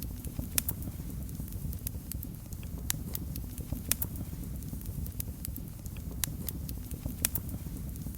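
Wood fire burning in a fireplace: a steady low rumble of flames with irregular crackles and sharp pops, a few of them louder than the rest.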